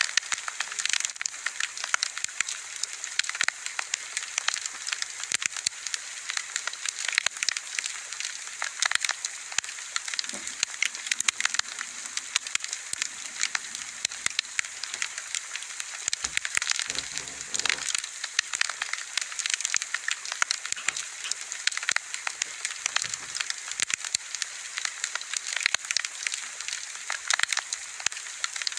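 Wood bonfire burning steadily, crackling and popping with a dense, irregular run of sharp snaps over a soft hiss.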